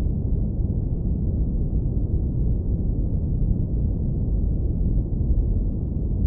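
Steady, deep rumbling brown noise, electronically generated and filtered down to only the lowest frequencies, with no changes or events.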